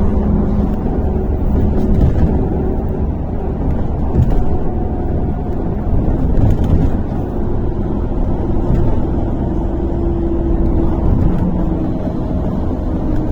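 Inside a MAZ-103 city bus on the move: steady engine and road rumble, with a faint whine from the drivetrain that comes and goes.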